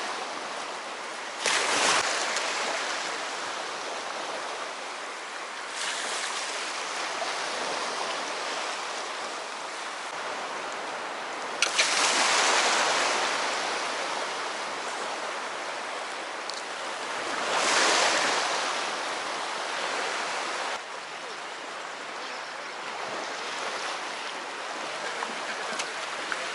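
Sea waves washing onto the shore, a continuous rush that swells louder three times as waves break.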